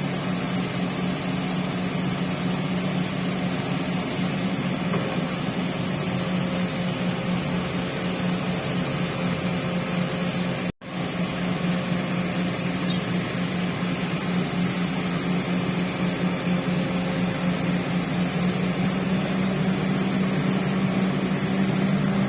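Heavy construction machine's engine running steadily under load, a continuous low drone that cuts out for an instant near the middle and comes straight back.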